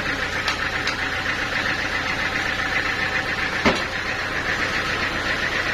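Sawmill machinery running steadily with a constant hum, a few light clicks, and one sharper knock about three and a half seconds in.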